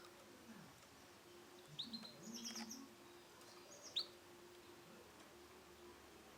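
Male canary giving a few brief high chirps: a short cluster about two seconds in and one sharp chirp near four seconds, faint.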